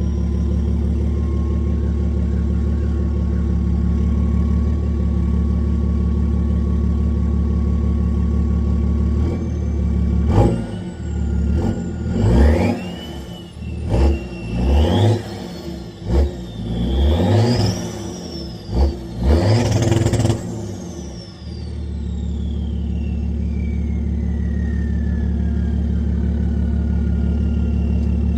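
BMW 335d's twin-turbo 3.0-litre straight-six diesel with a fully straight-piped exhaust, idling, then blipped through a series of sharp revs and settling back to idle. A turbo whistle rises and falls with each rev and slowly winds down after the last one.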